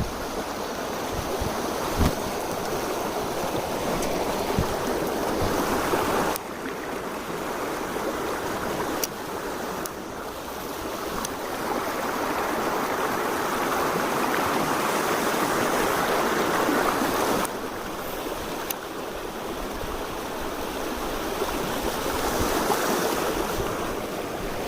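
Mountain stream water rushing continuously, swelling and easing in level. There are sudden drops in loudness about six and seventeen seconds in, and a few faint ticks.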